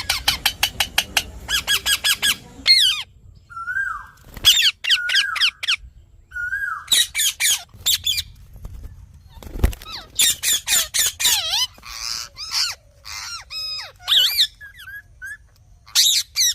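Parrots calling: a fast run of sharp, high screeching calls, then bursts of chirps and curving whistles with short pauses between them. A single low thump about ten seconds in.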